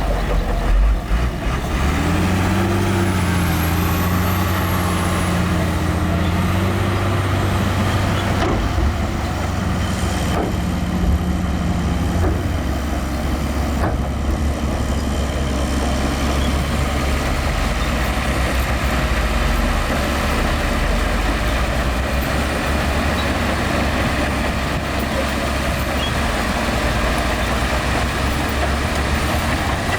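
Heavy diesel earthmoving machinery running hard, a steady low engine drone. Its pitch rises and falls over the first few seconds, then it holds an even rumble.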